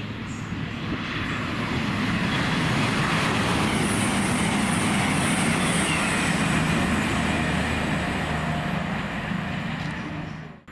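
Grand Central Class 180 diesel multiple unit passing through the station at speed. The rush of wheels and body noise builds over the first couple of seconds and tails off near the end, with a steady low engine drone underneath.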